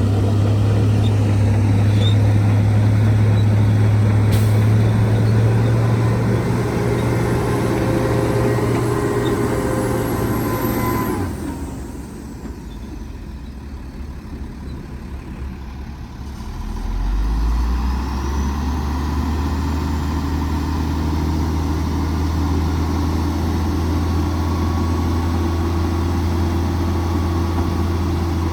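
Diesel engine of heavy earthmoving machinery running steadily with a deep hum. About eleven seconds in the engine note drops away and the sound goes quieter for several seconds. Then an engine comes in again at a slightly lower note and runs steadily.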